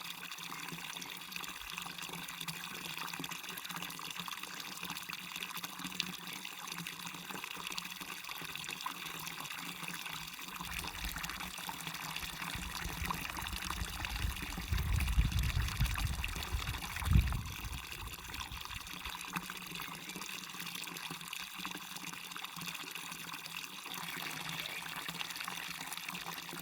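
Waterfall and stream water rushing and splashing in a steady hiss. About halfway through a low rumble swells for several seconds, with two louder thumps close together.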